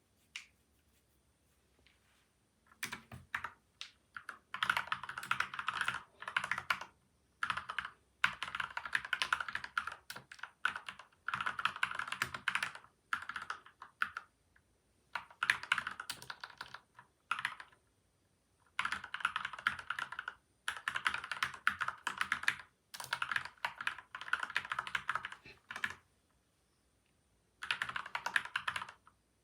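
Typing on a PCL87 mechanical keyboard with lubed Gateron milky white and Outemu yellow switches, dampened with tape and foam mods: bursts of rapid keystrokes broken by short pauses. The typing starts about three seconds in.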